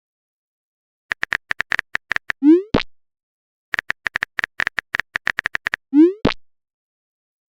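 Chat-message sound effects: a run of quick typing clicks, then a short rising whoop ending in a pop as the message is sent. This happens twice, with a pause of about a second between.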